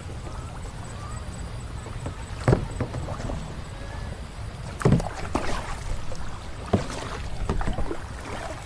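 Kayak being paddled: short splashing paddle strokes in the water, three of them about two seconds apart, over a steady low rumble.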